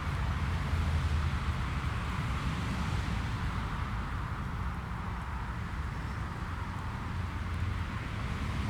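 Jet airliner engines heard from beside the runway: a steady low rumble with a rushing hiss over it.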